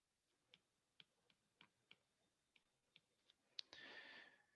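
Near silence with faint, irregularly spaced taps of writing on a board, about ten of them, then a short scratchy scrape a little before the end.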